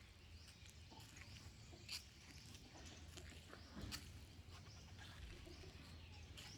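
Faint, scattered chirps of a flock of birds feeding, over a low steady background hum, with two short clicks about two and four seconds in.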